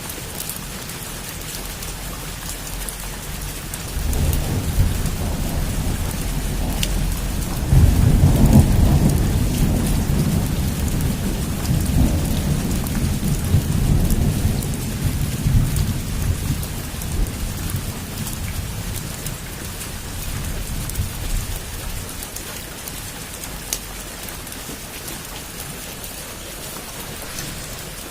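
Heavy rain falling steadily, with a long roll of thunder. The thunder comes in about four seconds in, swells into a deep rumble, and dies away over the next fifteen seconds or so, while the rain carries on.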